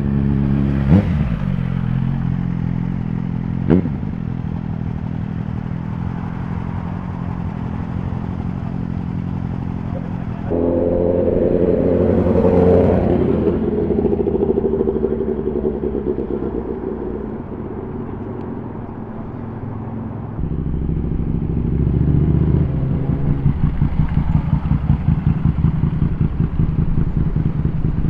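Superbike engines idling and running at low revs, with two sharp pops in the first four seconds and a brief rise in revs about twelve seconds in. The engine note changes abruptly twice, as from one bike to another. Near the end it turns to a fast, choppy, lumpy pulsing.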